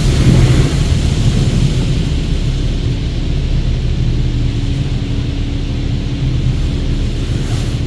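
Automatic car wash running, heard from inside the car's cabin: a steady low drone of the wash machinery with water spraying over the car, and a steady hum joining about three seconds in.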